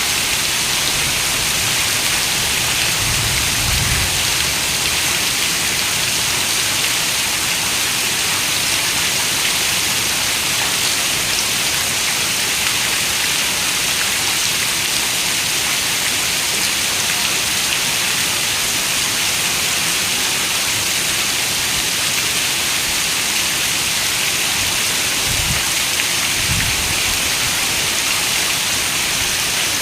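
Steady rain falling, an even hiss, with brief low rumbles about three seconds in and again near the end.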